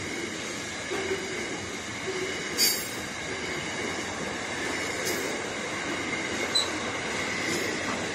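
A freight train of covered hopper wagons rolls steadily past, its wheels and wagons making a continuous rolling rail noise with a faint steady high squeal. A few brief sharp metallic sounds cut through, the loudest about two and a half seconds in.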